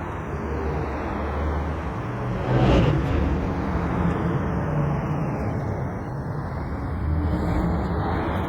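Steady motor or machinery noise, with a brief louder swell about three seconds in.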